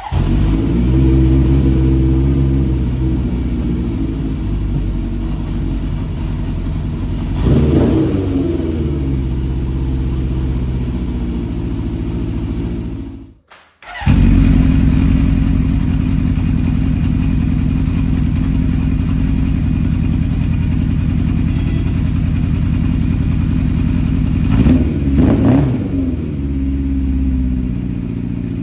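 1977 Honda CB750K's air-cooled inline-four engine catching on a cold start and running steadily, with a brief throttle blip about eight seconds in and a couple more near the end. The sound drops out for about half a second around the middle, then the engine runs on.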